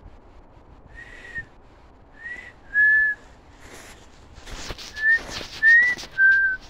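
A person whistling six short notes, one, then two, then three, each a clear tone with a slight bend in pitch. Rustling and crackling comes in about halfway through.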